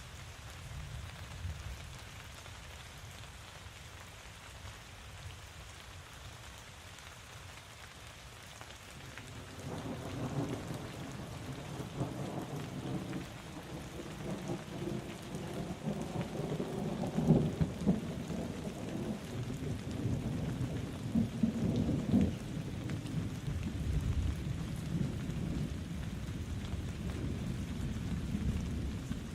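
Steady rain falling, with a long rolling rumble of thunder that builds about a third of the way in, peaks twice around the middle and then rolls on beneath the rain.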